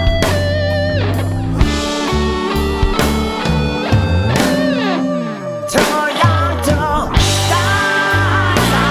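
Studio rock band recording: a lead guitar line over bass, drums and keyboards, with the guitar sliding and bending between held notes around the middle.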